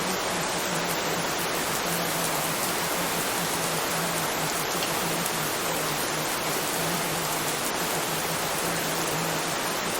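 Steady, even rain hiss. Under it runs a low hum that breaks off and comes back every second or so.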